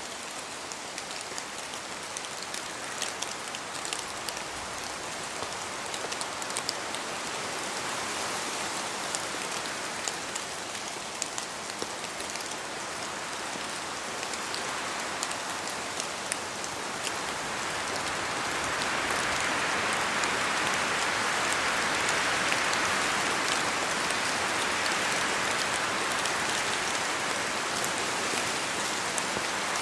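Steady rain falling through forest trees, with sharp drops ticking throughout. About two-thirds of the way in the hiss swells louder and stays up, as wind gusts through the trees.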